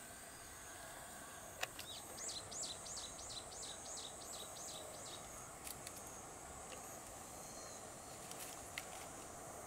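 Outdoor ambience: from about two seconds in, a bird calls a quick run of about nine high repeated notes over a steady background hiss, with a single click just before.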